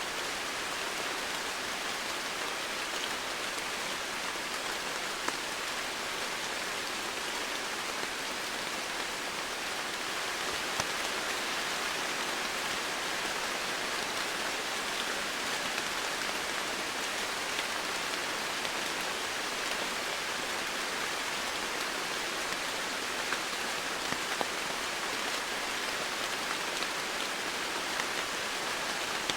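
Steady rain falling, an even hiss with a few sharper drop ticks standing out here and there.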